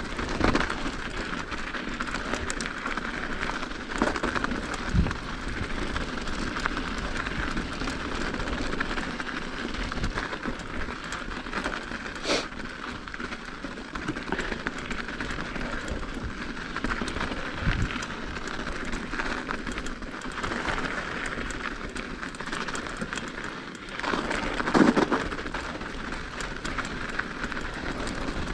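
Mountain bike riding over an icy, snowy trail: a steady rolling noise from the tyres and drivetrain, with occasional knocks and rattles as the bike hits bumps. A louder jolt comes near the end.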